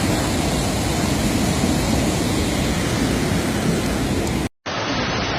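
Floodwater rushing, a steady even noise, broken by a brief cut about four and a half seconds in, after which the noise carries on duller.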